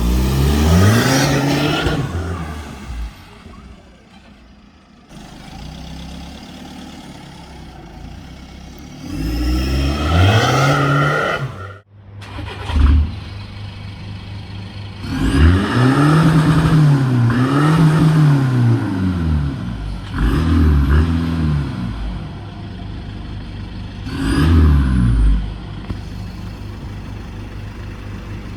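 Straight-piped Seat Leon FR's 2.0 TDI four-cylinder turbodiesel being revved several times, each rev rising and falling back to a steady idle. Two revs come back to back in the middle.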